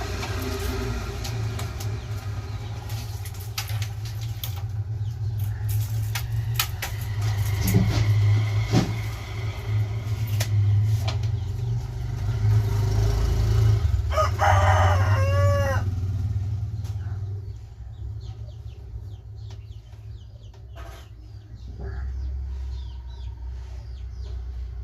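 A rooster crows once, a single long call about fourteen seconds in. It sounds over a steady low rumble and scattered sharp clicks and knocks.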